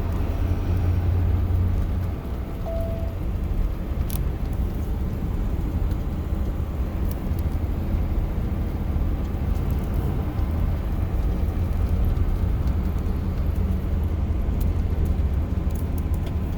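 Box truck driving along the road, heard from inside the cab: a steady low engine and road rumble.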